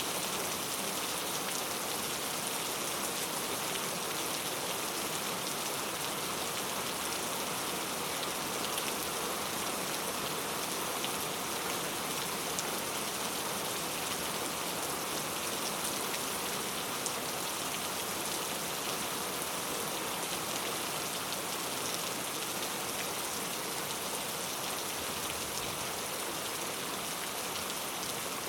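Steady rainfall, an even hiss of many drops falling on surfaces, with no thunder.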